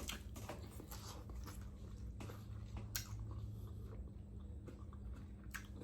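Faint chewing of food close to the microphone: soft wet mouth clicks, with a sharper click about three seconds in and another near the end, over a steady low hum.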